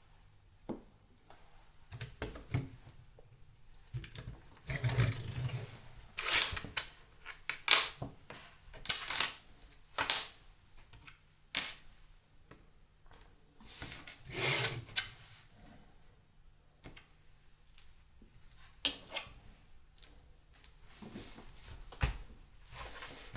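Small plastic LEGO pieces clicking and clattering as they are picked up, handled and fitted together, in irregular short bursts with quiet gaps between.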